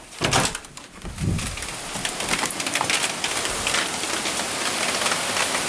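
Very heavy rain pouring down: a dense, steady patter of drops that swells louder about a second and a half in. A brief clatter of knocks comes near the start.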